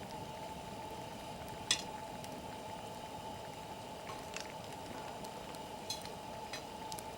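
Wood campfire burning with a steady hiss and a few sharp crackling pops, the loudest about two seconds in.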